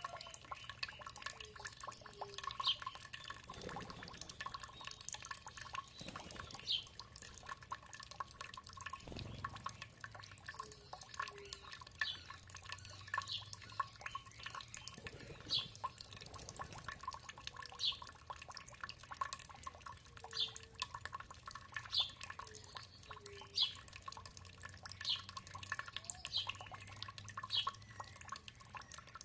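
Water dripping, single drops landing irregularly about once every second or two over a faint steady trickle.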